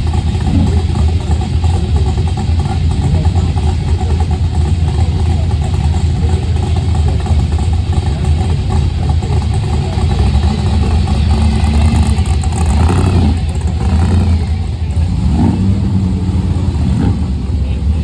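Car engine running with a loud, steady low rumble. In the second half, its pitch rises and falls a few times as it is revved.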